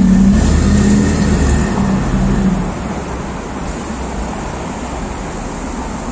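A car's engine running loudly as it pulls away, its low note breaking off and picking up again a few times, fading after about three seconds into the steady noise of city street traffic.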